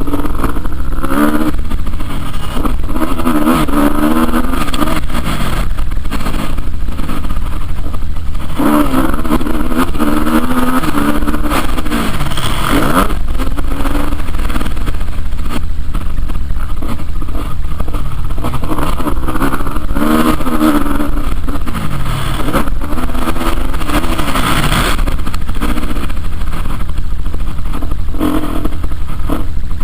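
Motocross bike engine running hard, its pitch climbing and dropping over and over as the rider throttles on and off, with a constant low rumble underneath.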